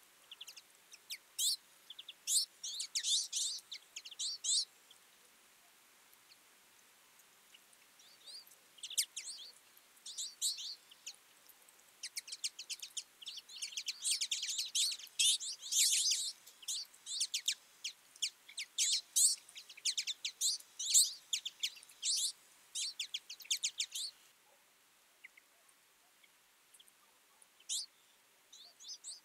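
A flock of twites twittering: many short, high calls overlapping in bursts, thickest through the middle, with a lull of a few seconds shortly before the end.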